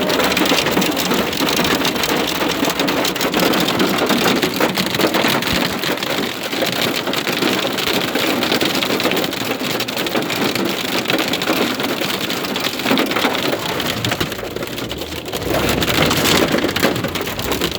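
Heavy rain mixed with hail pelting down: a dense, steady patter of countless small hits. It eases briefly near the end, then picks up again.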